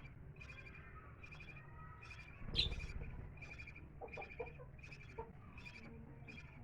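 Pet parrots chirping in a steady, even rhythm, about two short chirps a second, with one louder, sharper call about two and a half seconds in.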